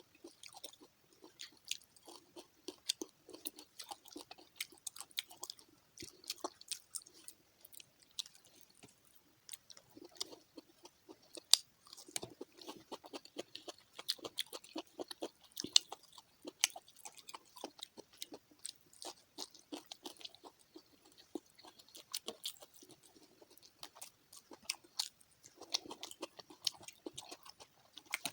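Fried fish being chewed and crunched, with many quick, irregular clicks and smacks of the mouth.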